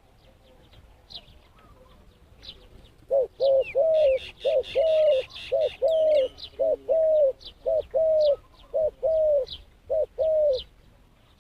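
Dove cooing: a run of repeated low coos in short-then-long pairs, starting about three seconds in and stopping shortly before the end. Small birds chirp faintly and high-pitched throughout, with a brief burst of twittering near the start of the cooing.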